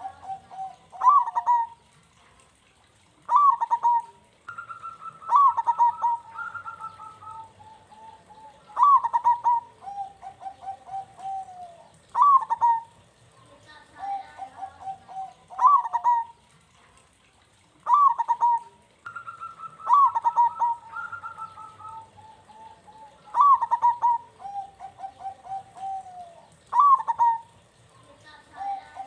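Zebra dove cooing: a phrase that opens with a sharp note and runs into a quick string of short coos, repeated every three to four seconds.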